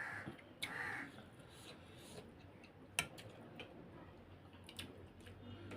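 Faint eating sounds from a bowl of ramen: two short slurps in the first second, then quiet chewing with small scattered clicks of utensils, one sharper click about three seconds in.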